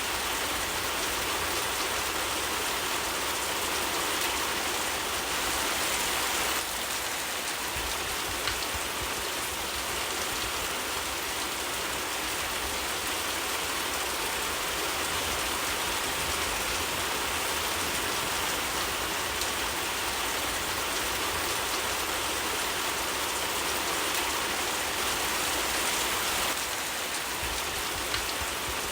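Steady, heavy rainfall: a dense, even hiss of drops, with a few faint clicks. It dips slightly a few seconds in and comes back up near the end.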